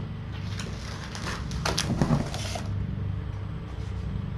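Light rustling and clicking handling noises, strongest around one to two and a half seconds in, over a steady low hum.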